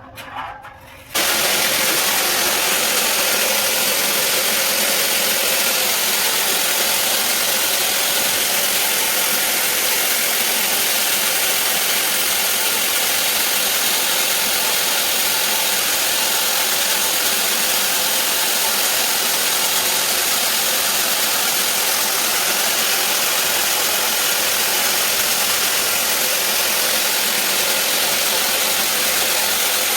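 Sawmill bandsaw running, a loud steady machine noise that starts suddenly about a second in and holds without change.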